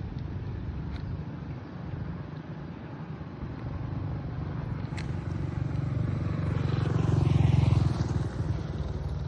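Motor vehicle engine running steadily, growing louder as it comes close and loudest about seven and a half seconds in, then easing off as it passes.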